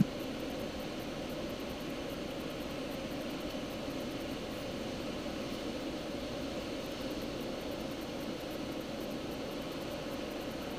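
Steady, unchanging hum of a car's engine idling, heard from inside the cabin.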